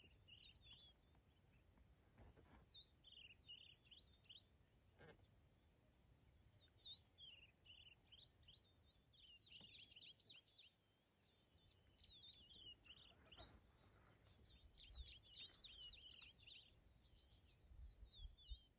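Faint birdsong: clusters of quick high chirps that come again every few seconds, over a faint low rumble.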